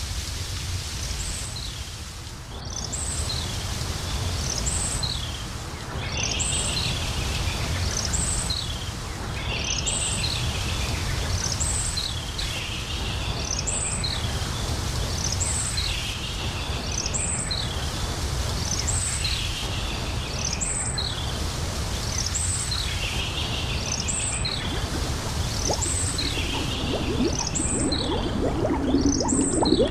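A songbird repeats the same short chirping phrase every second or two, with high thin notes, over a steady low rumble of outdoor ambience. A low crackling sound rises near the end.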